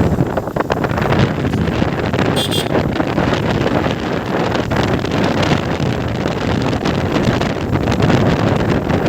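Wind buffeting the microphone on a moving motorcycle, with the bike's engine running underneath. A brief high-pitched tone sounds about two and a half seconds in.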